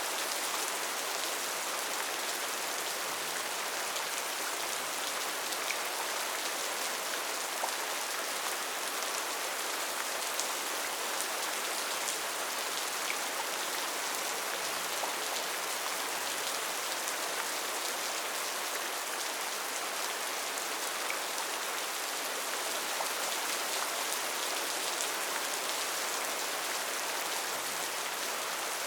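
Steady rain falling on a rainforest, an even hiss with scattered faint drop ticks.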